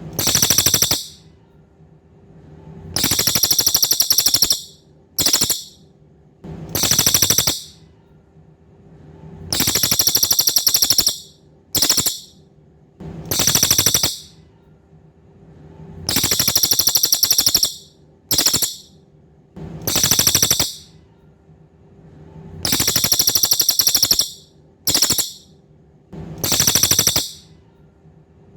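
Cililin song played on a loop: long, high-pitched, very rapid buzzing trills lasting one and a half to two seconds, each set off by a short chirp, with the pattern repeating about every seven seconds. A faint steady hum lies underneath.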